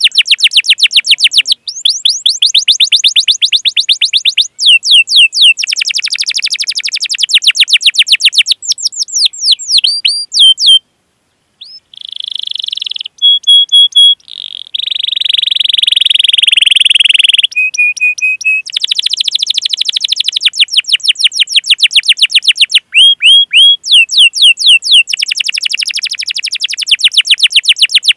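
Domestic canary singing at full voice: long runs of fast repeated chirps ('cuit cuit') and rolled trills, with a short break about eleven seconds in, then held whistled notes and a buzzy roll before the chirping runs resume.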